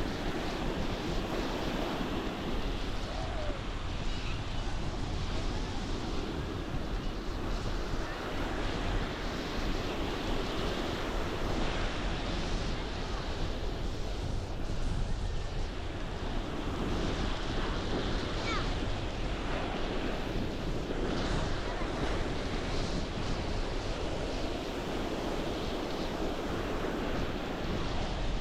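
Ocean surf washing onto a beach, with wind buffeting the microphone throughout.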